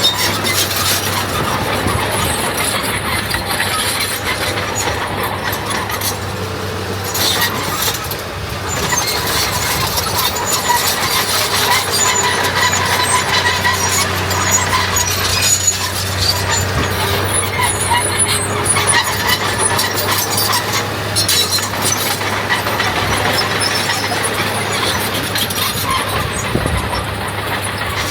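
Diesel engine of earthmoving machinery running steadily under load, with metallic squealing over it.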